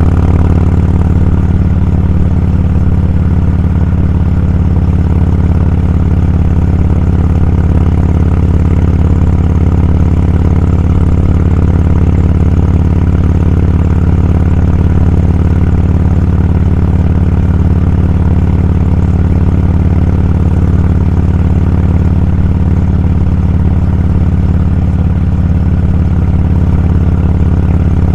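Motorcycle engine running steadily at an even, low pitch, with no change in speed.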